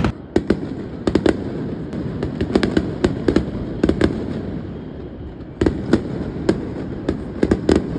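Aerial fireworks bursting: sharp cracks and bangs, many in quick clusters, over a continuous low rumble of further bursts.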